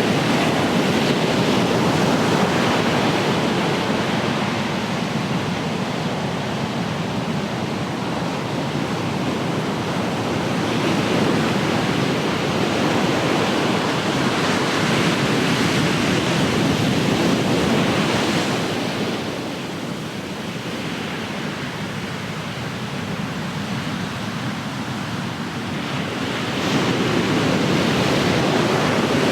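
Ocean surf: waves breaking and washing ashore in a continuous rush that swells and ebbs, easing off about two-thirds of the way through before another wave breaks near the end.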